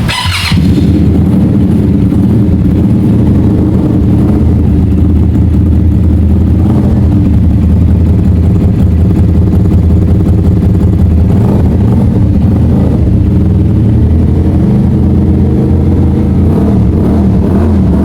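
Morbidelli C252V motorcycle's V-twin engine running through a custom exhaust: a loud, steady low rumble, its pitch shifting slightly a few times.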